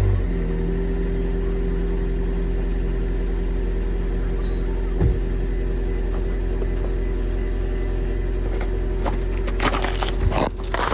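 Car engine idling steadily just after a cold start, following the flare of the start. There is a single knock about halfway through and a few clicks and knocks near the end.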